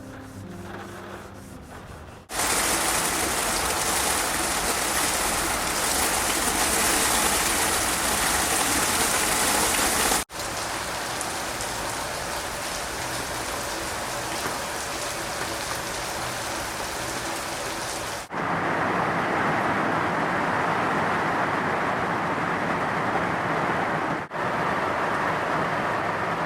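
Heavy typhoon rain pouring steadily, in several edited takes that change abruptly about ten, eighteen and twenty-four seconds in. Background music is heard for the first two seconds before the rain starts.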